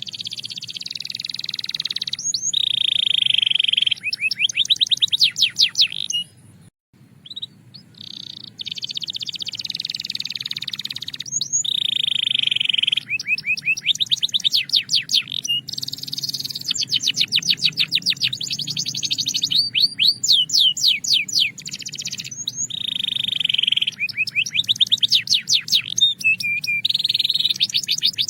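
Belgian canary singing a continuous song that alternates held rolling notes with fast trills of rapidly repeated notes. There is a brief pause about seven seconds in.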